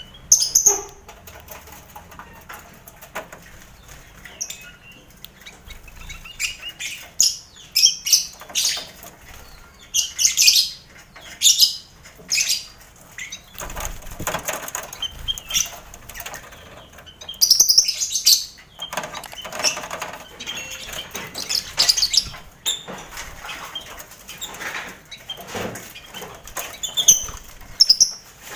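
Busy colony aviary of lovebirds kept with finches and quail: shrill chirps and squawks coming in irregular bursts, with wings flapping and rustling in between.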